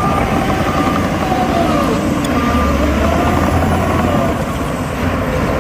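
Heavy diesel engines of earthmoving machines running under load, their pitch rising and falling, with a reversing alarm beeping about once a second.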